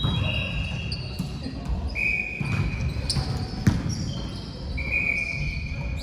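Indoor basketball game on a gym court: sneakers squeaking in short high squeals a few times, and a ball bouncing, with one sharp bang a little past halfway, over the echoing hum of the hall.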